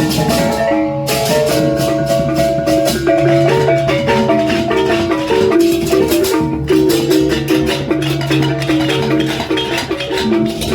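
Balinese gamelan music: tuned metal percussion playing a quick melody of short stepping notes over a low steady tone, with dense, even strikes of rattling percussion.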